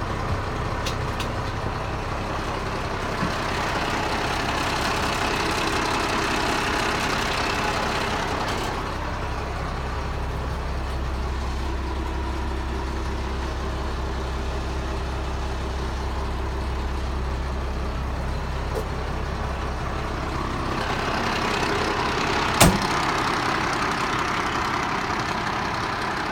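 Diesel engine of a 1995 International 4900 truck running steadily at idle, with a deeper steady hum through the middle and a single sharp click near the end.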